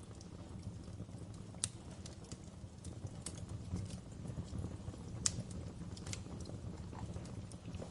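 Wood fire crackling in a fireplace: irregular sharp pops and snaps over a steady low rumble, the loudest pop a little past halfway.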